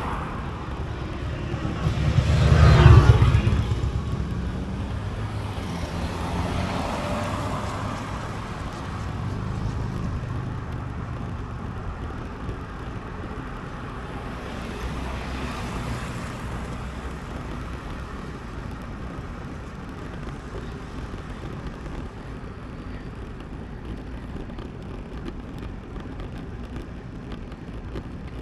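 Motor vehicle passing close by about three seconds in, followed by a few fainter vehicles passing, over steady road and wind noise on the microphone.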